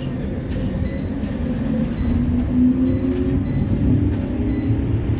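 CAF Urbos 3 tram on the West Midlands Metro running, heard from inside the car: a steady low rumble with a traction-motor whine that rises slowly in pitch as the tram picks up speed.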